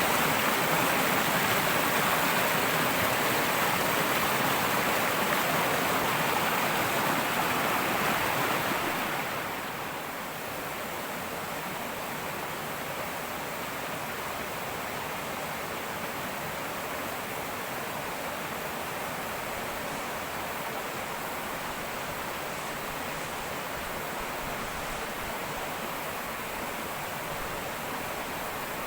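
Fast river current rushing over rocks, loud at first and then dropping to a softer, steady rush about nine seconds in. A steady high-pitched buzz of cicadas runs underneath.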